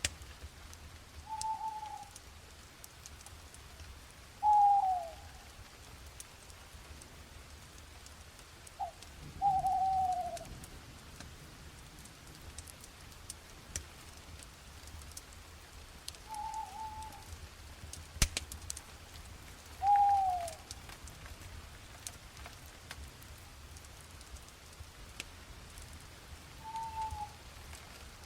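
A bird calling at night: short single falling notes, about half a dozen, a few seconds apart. Under them, scattered sharp crackles from a campfire and a low steady rumble.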